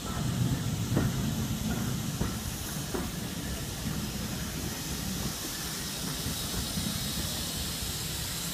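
Passenger coach of a steam-hauled train rumbling along the rails as it runs slowly into a station, with a few short squeals about one, two and three seconds in. Steam hisses from 1902-built SECR C-class locomotive No. 592 standing alongside, growing louder toward the end.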